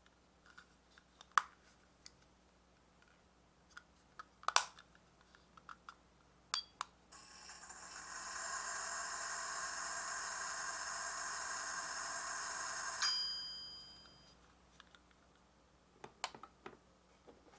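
Miniature gacha-toy microwave: a few small plastic clicks, then its built-in sound effect of a microwave running, a steady hum for about six seconds that ends in a ding. A few more plastic clicks follow near the end.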